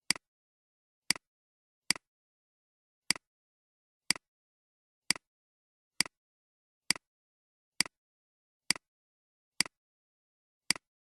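A sharp double click, a strong one followed at once by a weaker one, repeating about once a second with dead silence between.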